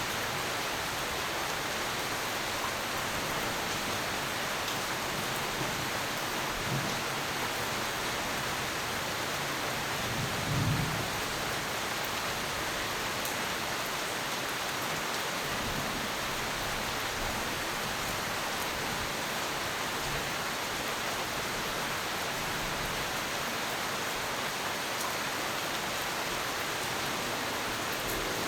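Steady heavy rain with a few low rolls of thunder. The loudest thunder comes about ten seconds in.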